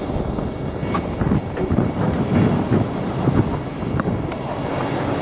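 Heavy diesel truck engine rumbling steadily, with scattered metallic clanks and a couple of sharper clicks, about a second in and about four seconds in.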